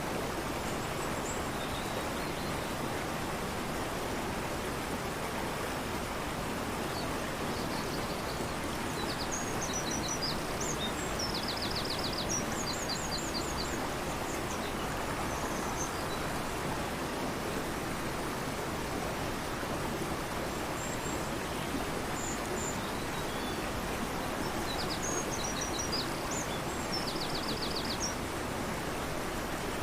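Fast-flowing river rushing steadily, with a small songbird singing twice over it: a phrase of high chirps and quick trills.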